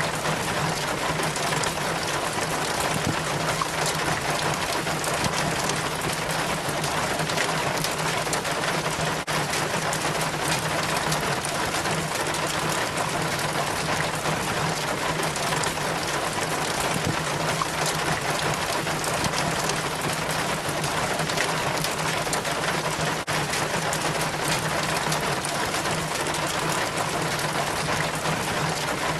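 Rainwater trickling and splashing down a rain chain from a roof gutter, a steady dense patter of drips and running water. A faint low steady hum sits under it.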